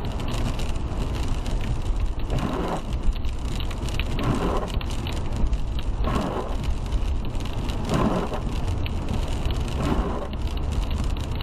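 A car driving in the rain, heard from inside: steady road and engine rumble, rain ticking on the car, and a windshield wiper swish about every two seconds.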